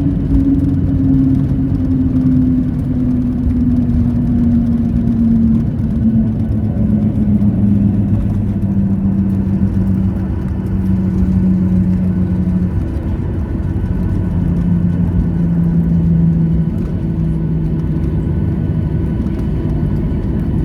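Boeing 737-800's CFM56 jet engines heard from inside the cabin: a loud rumble with a hum that falls steadily in pitch as the engines spool down after landing.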